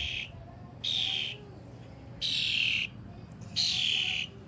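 A bird giving harsh, hissing calls, each about half a second long, repeated about every second and a half.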